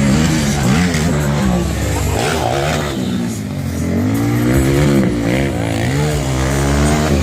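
Racing quad ATV engines revving up and down over and over as the throttle is opened and closed.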